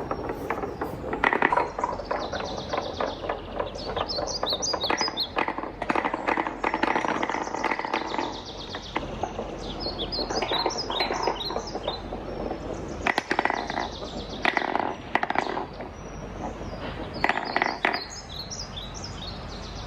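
Wooden balls rolling and clattering down a wooden marble run, with rapid knocks and short pitched wooden notes as they hit the track.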